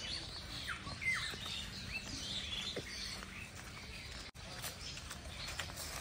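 Several birds chirping and calling, with short sweeping notes, over low background noise; footsteps on dry leaves and ground add faint crunching clicks in the second half.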